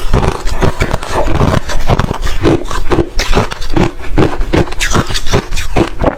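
Hard ice being bitten and chewed close to the microphone: a loud, continuous run of crisp crunches in a chewing rhythm of about two or three a second.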